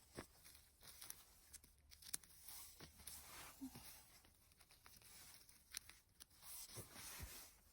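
Faint scattered crackling and rustling of dry mushrooms being handled and picked, with a few short clicks.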